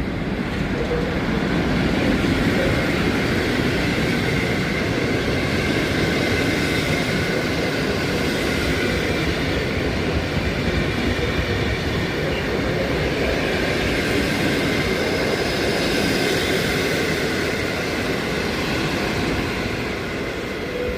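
An EP07 electric locomotive hauling a passenger train rolling into the station: a steady rumble of wheels and coaches with a faint high whine over it.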